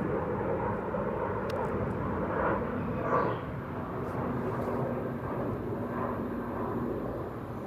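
Steady low rumble of a vehicle, with a faint steady hum running through most of it.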